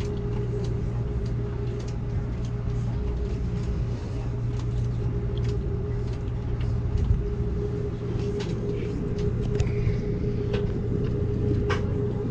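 Amtrak Cascades passenger train running, heard from inside the car: a steady low rumble with an even hum, and scattered light clicks and creaks throughout.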